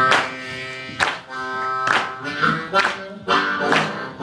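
Blues harmonica playing long held notes over a band, with a sharp percussive hit landing about once a second.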